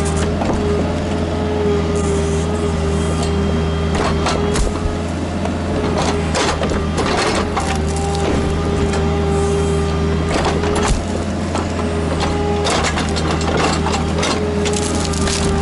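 Kubota KX121-3 mini excavator running steadily, its hydraulics whining in a tone that wavers up and down, with several sharp cracks and knocks as the machine works the stumps and roots.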